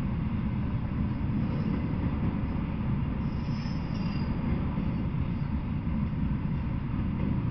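Double-stack intermodal freight train rolling past: a steady low rumble of loaded well cars on the rails, with a brief faint high squeal about three seconds in.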